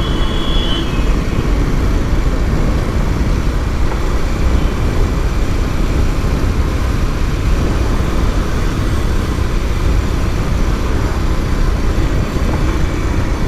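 Steady rush of wind and road noise from a moving motorcycle in traffic. A short high-pitched beep sounds right at the start.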